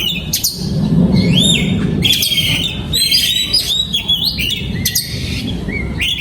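Oriental magpie-robin singing: a fast, unbroken run of varied clear whistled notes, many of them sharp upward slurs.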